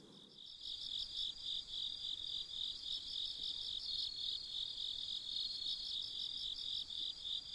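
Crickets chirping: a continuous high, pulsing trill that sets in about half a second in and runs on evenly.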